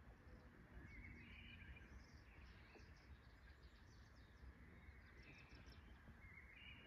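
Near silence: faint outdoor ambience with a low rumble, and a bird chirping in several short bursts of high notes.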